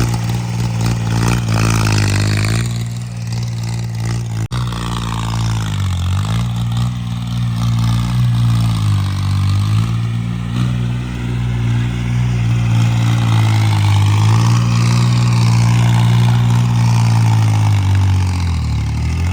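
Homemade tractor's diesel engine running steadily under load. Its pitch dips briefly several times, most deeply near the end.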